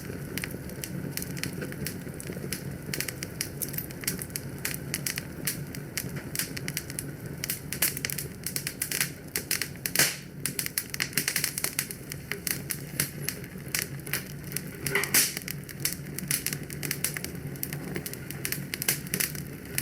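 Wood fire burning in a fireplace: a steady low rumble of flames with dense, irregular crackles and snaps, two louder pops about halfway and near three-quarters through.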